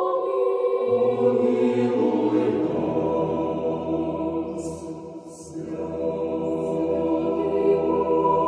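Orthodox church singing: several voices chanting together in sustained harmony. About five seconds in there is a short dip, like a breath between phrases, before the singing picks up again.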